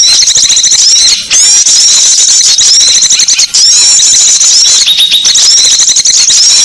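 A loud, dense chorus of small songbirds, rapid high chirps and twittering calls overlapping without pause: a bird-lure recording for small birds. The calls briefly thin out twice, about a second in and again near the middle.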